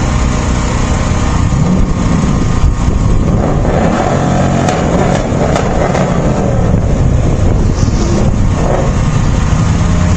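A motor vehicle engine running loudly and steadily, with a low drone and constant road or wind noise.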